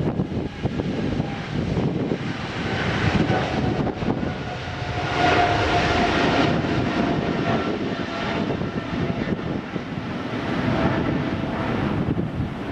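Jet airliner engines running, with a whine that grows strongest about halfway through, over wind noise on the microphone.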